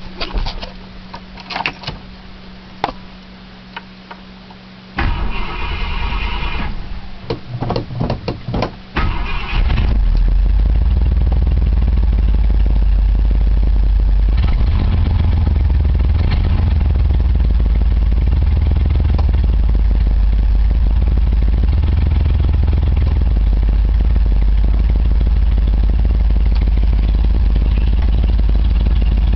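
1966 Ford Galaxie 500's 390 V8 being cold-started: the starter cranks about five seconds in, there are a few more short bursts, and the engine catches near ten seconds, then runs steadily at a loud, low, even note.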